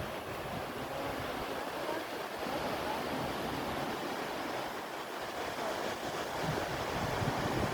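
Ocean surf breaking and washing up a sandy beach in a steady rush, with some wind buffeting the microphone near the end.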